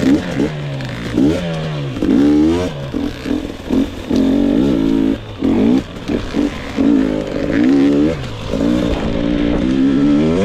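2022 GasGas EX 250 two-stroke engine being ridden, revving up and dropping back again and again as the throttle is opened and closed.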